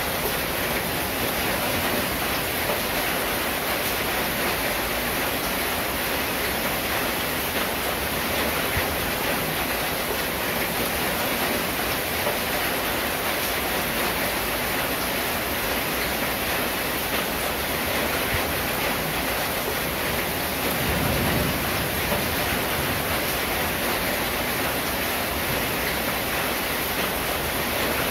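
Steady rain pattering on a corrugated zinc roof, a dense even hiss with no letup. A brief low rumble rises and fades about three quarters of the way through.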